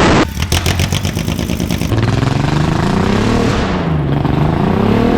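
Audi 3.2-litre VR6 engine running out of the car with no exhaust pipes. It is very loud and unmuffled: a hard rev drops off just after the start into a rapid string of pops, then the engine note sinks and climbs again.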